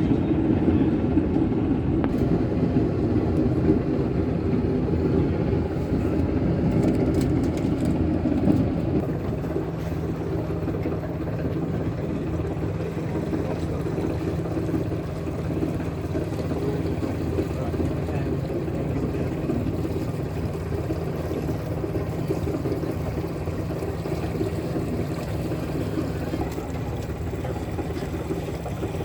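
Electric passenger boat under way: a steady low hum with the rush of water along the hull, easing slightly about nine seconds in and then running on evenly.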